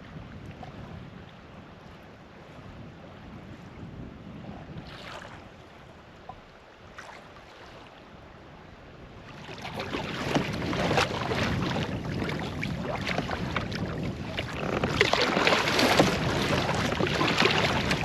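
Canoe paddle strokes through lake water, with splashes and drips off the blade. A couple of single strokes early on, then the splashing becomes louder and more continuous about halfway through.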